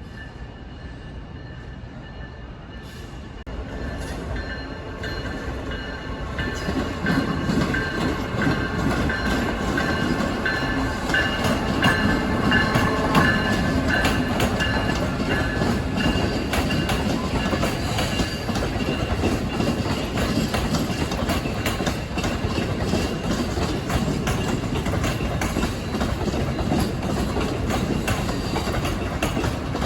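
A train rolling past, its wheels clicking over the rail joints. The sound builds over the first several seconds as the train arrives, then holds steady.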